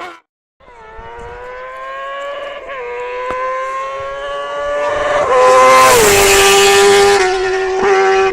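Motorcycle engine running. After a brief dropout at the start, its note rises slowly for several seconds. About five seconds in it grows louder with a burst of hiss, and its pitch drops, then holds steady.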